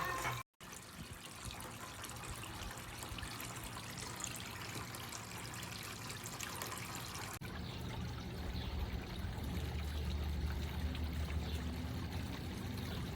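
Water trickling and splashing steadily down a pump-driven cascading water fountain. There is a brief dropout about half a second in, and about seven seconds in the sound changes abruptly to a duller trickle with a low hum under it.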